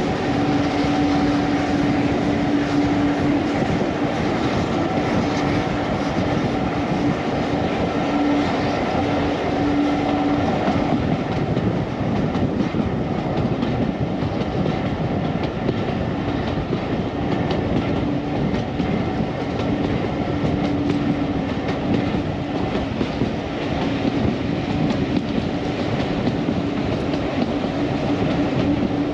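Train running steadily on the rails, a continuous rumble of wheels and running gear with a held hum underneath.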